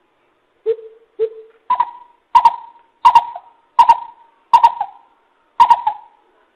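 Greater coucal calling: a series of about nine deep hoots. The first two are lower, and the rest are about twice as high, each coming under a second after the last.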